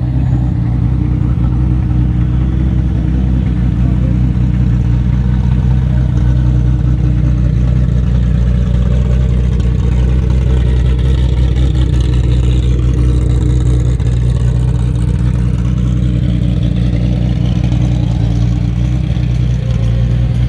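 Turbocharged BMW E30 drag car with an E34 M5 engine idling steadily, holding an even pitch throughout with no revving.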